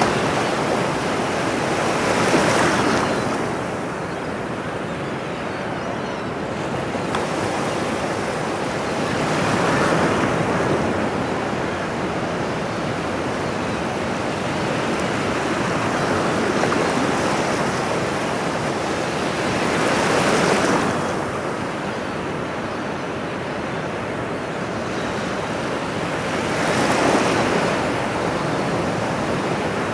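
Ocean surf: a steady wash of waves with four swells as waves break, each building and fading over a few seconds, several seconds apart.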